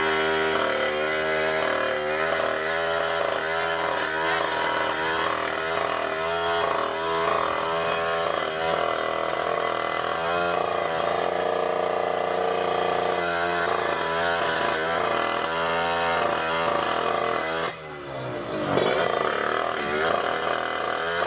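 Drag-racing motorcycle engines held at high revs, their pitch wavering and stepping. A little before the end the sound cuts to engine pitch sweeping quickly up and down as a bike accelerates hard.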